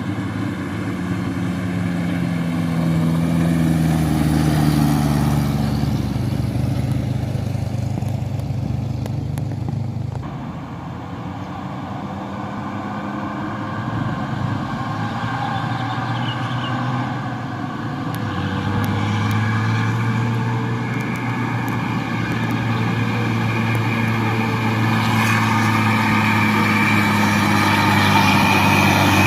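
Loaded dump trucks driving past with their engines running. One engine note falls in pitch over the first several seconds; later another engine's note climbs and grows louder toward the end.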